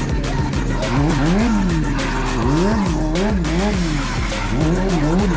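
Motorcycle engine revved up and down over and over in quick throttle blips, its pitch rising and falling about one and a half times a second, with music playing underneath.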